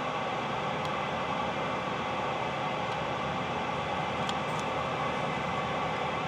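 Steady static hiss from the Premier Centurion radio's speaker, open band noise with no signal getting through as the skip conditions fade out. The hiss cuts off at the end.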